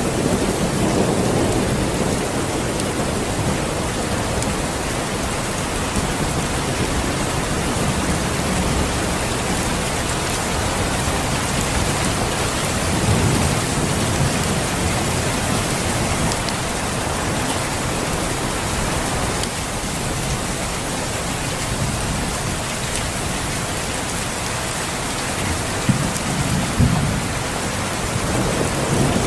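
Steady, heavy rain falling, with low rumbles of thunder rising three times: about a second in, around the middle, and near the end.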